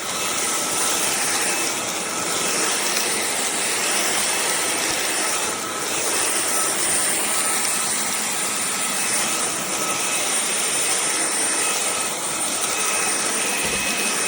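Cordless stick vacuum cleaner running steadily: a loud rush of air with a thin, high motor whine over it.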